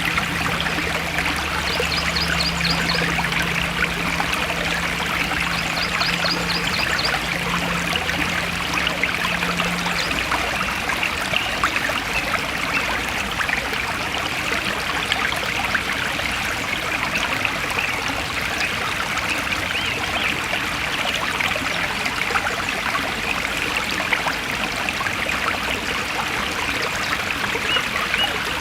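Forest stream flowing and trickling steadily. Two short, rapid high trills sound about two and six seconds in, and a low steady hum fades out about ten seconds in.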